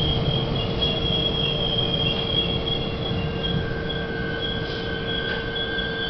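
Budd-built Miami Metrorail car running on the rails with its wheels squealing in several steady high tones, a lower squeal joining about halfway, over a steady hum and low rumble from the running gear.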